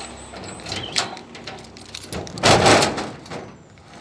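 Garage door being unlocked and opened: a sharp click about a second in, then a loud rush of noise from the door moving, loudest around two and a half seconds in.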